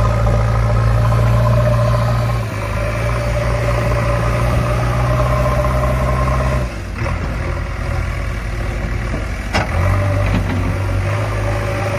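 A steady, low engine sound that drops in level about two and a half seconds in and again about seven seconds in, then picks up near the end. A single sharp click comes about three seconds before the end.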